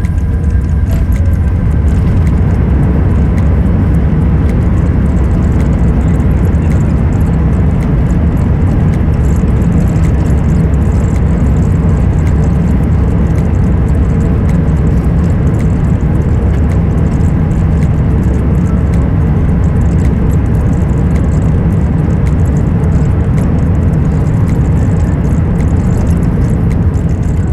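Airbus A380 cabin noise: a loud, steady, deep rumble with light rattling.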